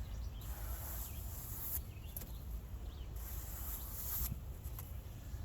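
High-pitched insect buzzing that comes and goes in pulses about a second long, over a low outdoor rumble.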